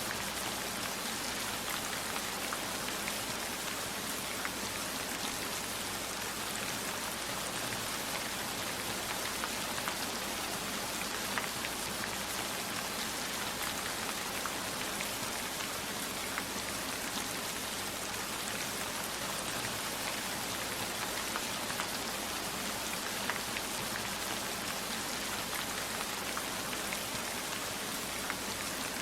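Steady rainfall, an even dense hiss of rain with a few sharper drop ticks scattered through it.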